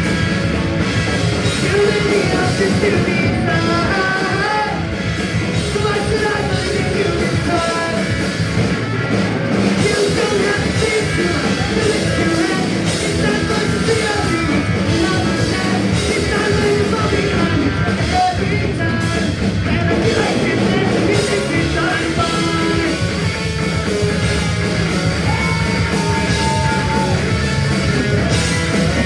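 Punk rock band playing a fast song live, with singing over the band.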